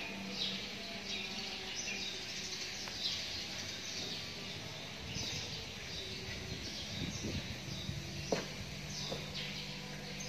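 Background ambience: birds chirping repeatedly in short high bursts over a faint steady low hum, with one short knock about eight seconds in.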